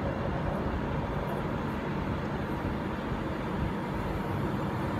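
Virgin Trains class 390 Pendolino electric train passing slowly through the station, giving a steady rumble.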